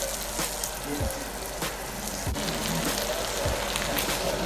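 Red onion, green beans and beef sizzling in a hot pan: a steady crackling hiss with scattered pops. A low thump repeats about every second and a quarter underneath.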